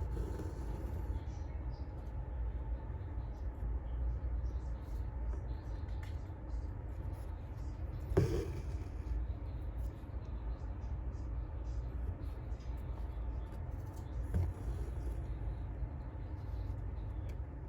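Thread being drawn through embroidery fabric: faint, repeated scratchy pulls over a steady low hum. A sharp knock comes about eight seconds in, and a softer one a few seconds later.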